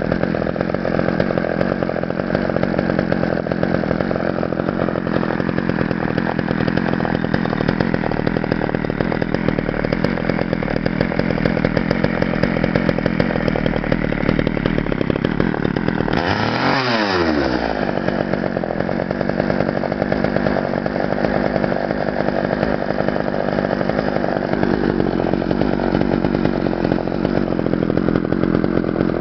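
Homelite 245 two-stroke chainsaw engine running steadily, with one brief sharp dip and recovery in engine speed a little past halfway.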